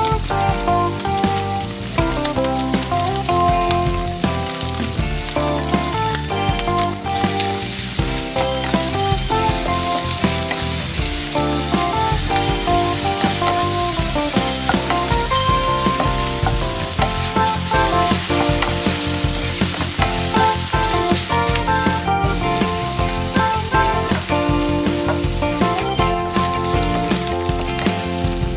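Chopped meat, onion and garlic sizzling steadily as they fry in oil in a white-coated frying pan, stirred and turned with a wooden spatula.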